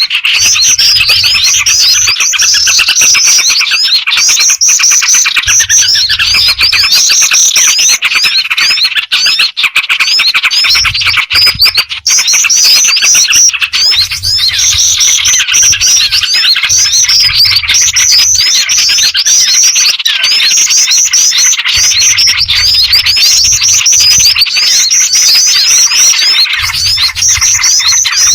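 Bird-trapping lure recording: a dense, continuous chorus of high chirps, trills and squawks from a mix of small birds, layering black-winged flycatcher-shrike calls with small-bird chatter and yellow-vented bulbul notes.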